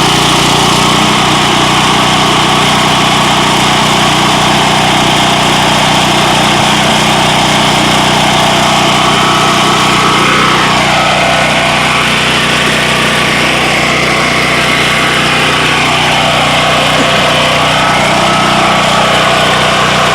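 5,000-watt portable generator engine running steadily on gasoline fumes drawn from the tank into its air intake instead of liquid fuel, its pitch wavering slightly in the second half.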